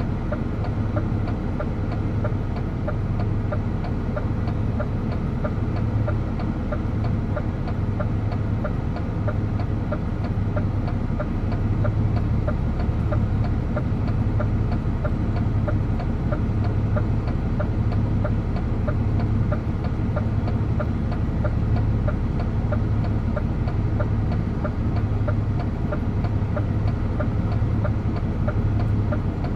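DAF truck's diesel engine running steadily while driving, a continuous low hum.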